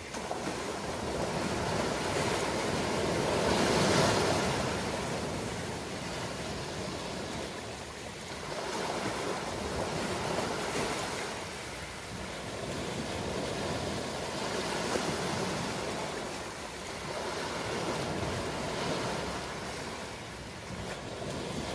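Ocean surf: waves washing in and drawing back in slow swells every few seconds, the loudest about four seconds in.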